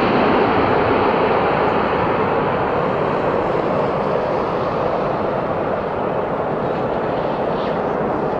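Jet airliner on final approach after passing low overhead: a steady engine roar that slowly fades.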